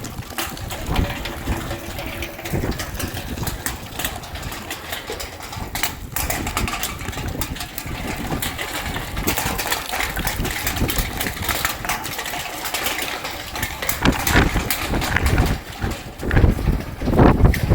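Strong gusty wind buffeting the microphone: a low, uneven rumble that surges and eases, louder near the end.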